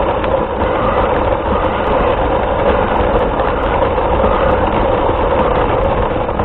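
Steady vehicle running noise picked up by a camera mounted on the vehicle: a constant low rumble with a band of whine-like noise in the mid range and no clear breaks.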